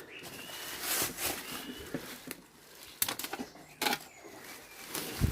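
Irregular crackling and rustling, with a few louder knocks, from footsteps and handling through undergrowth and rubble, with faint bird chirps.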